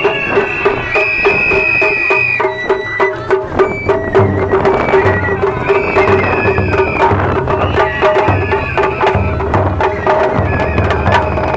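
Japanese festival hayashi music: a high flute plays long held notes over drums and other percussion struck in a steady rhythm. The low drum beats come in stronger about four seconds in.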